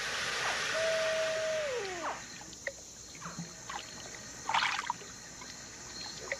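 Baby American alligator giving a distress call: one held note that slides down in pitch about two seconds in. Water sloshes around it, with a splash about four and a half seconds in, over a steady buzz of night insects.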